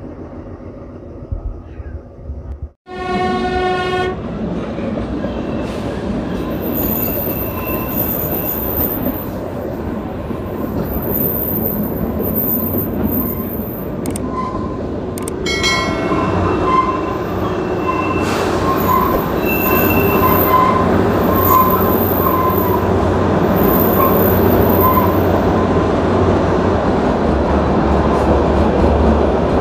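Kalka–Shimla narrow-gauge toy train running: its horn sounds for about a second near the start and briefly again around the middle. Between and after the horn blasts come the steady rumble and clatter of the coaches on the track, growing louder, with a thin high wheel squeal coming and going.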